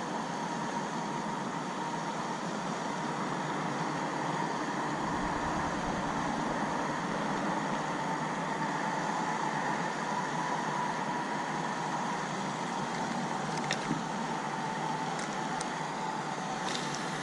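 A steady mechanical running noise with a thin constant whine, like a motor running, with a few light clicks near the end.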